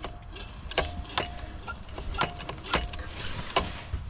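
Sharp metallic clacks, about five, irregularly spaced, some with a short ringing tone, as metal parts on the diesel engine are handled; the engine is not running.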